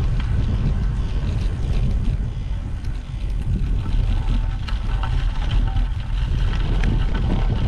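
Wind rumbling on the microphone of a moving bicycle, with tyre noise and scattered faint ticks.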